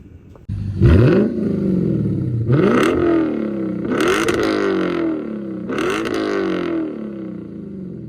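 Lexus IS F V8 with an aftermarket exhaust starting up about a second in, flaring, then revved three times, each rev climbing in pitch and falling back toward idle.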